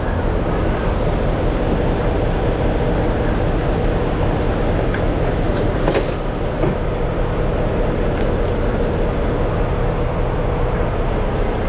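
Semi-truck diesel engine running with a steady low rumble, with a few light clicks over it.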